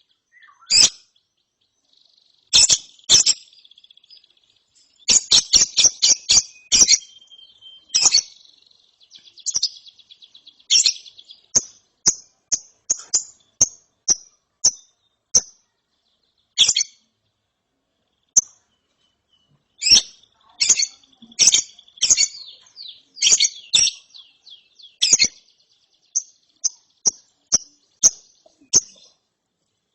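Young lovebird chirping: sharp, high chirps in clusters and quick runs, some over a buzzing trill, with a pause of a few seconds past the middle. This is the rapid chatter that Indonesian keepers call ngeriwik.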